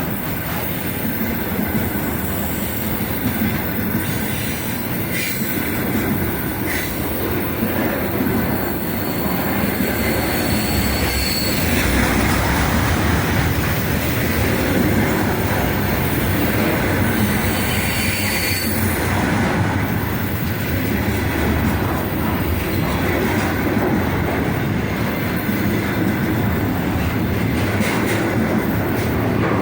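Loaded container freight wagons rolling past with a steady rumble and wheel clatter, and two brief high-pitched wheel squeals, about a third and two-thirds of the way through.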